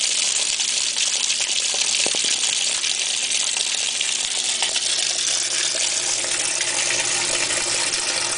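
Water gushing steadily into the drum of a Hotpoint top-load washing machine as it fills for its rinse cycle, with a couple of faint clicks about two seconds in.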